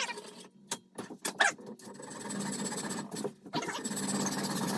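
A saw cutting through a wooden axe wedge: a few knocks as the cut starts, then steady sawing noise from about two seconds in.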